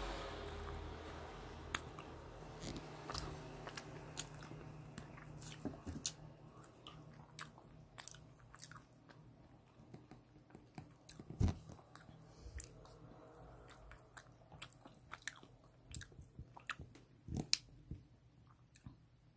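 A person chewing and biting into hard, frozen ice cream cake, crunching the almond chips in its almond bonbon layer, with scattered short clicks and crunches, the loudest about halfway through.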